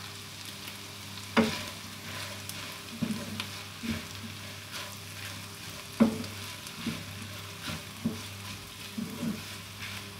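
Sautéed ingredients with freshly added bell pepper sizzling in a pan while being stirred, a utensil knocking against the pan every second or so, sharpest about a second and a half in and again about six seconds in.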